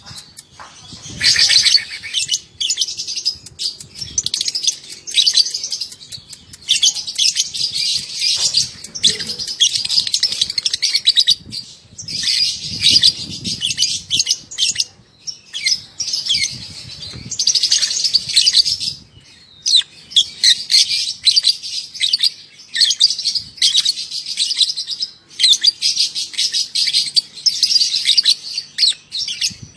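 Young lovebird singing its long, rapid, high chattering trill ("ngekek"), in bursts of a second or more with only short pauses between them.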